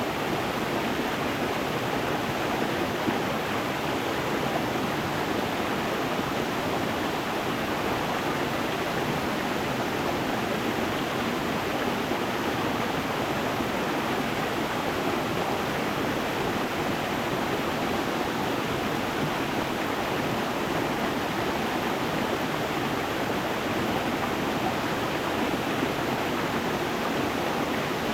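Stream water rushing and splashing steadily over stones, an even flow with no pauses.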